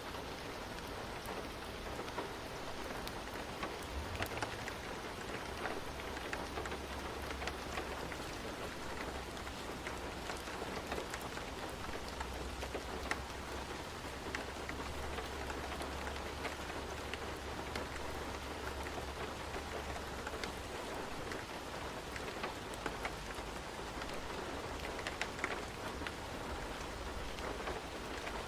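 Steady rain falling, with the patter of individual drops ticking over an even hiss, and a low rumble underneath through the middle stretch.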